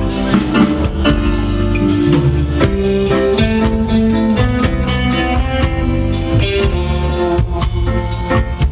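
Live pop band playing an instrumental passage between sung lines: guitar with bass and a steady drum-kit beat.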